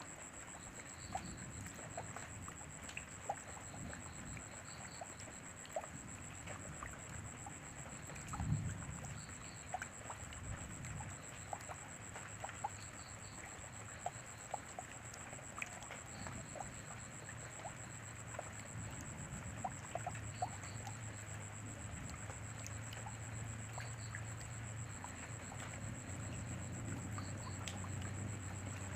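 Rain falling steadily, with many scattered drops ticking and pattering close by, and a faint steady high-pitched tone behind it.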